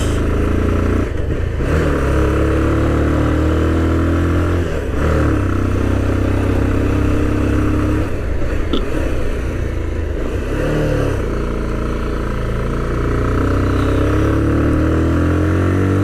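Motorcycle engine running under way, its pitch climbing steadily and then dropping sharply about four times, as with gear changes.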